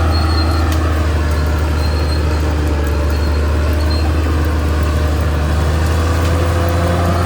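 Caterpillar D6R XL bulldozer's diesel engine running steadily with a deep hum, along with a whine that dips slightly in pitch and rises again near the end.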